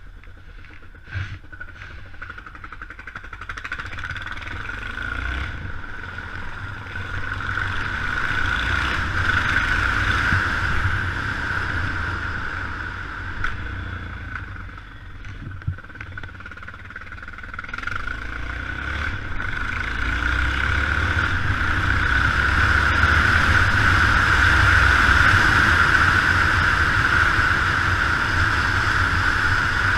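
Yamaha XT 600's single-cylinder four-stroke engine running under way, mixed with wind and wet-road noise. It builds up to speed over the first ten seconds, eases off briefly in the middle, then picks up and holds higher toward the end.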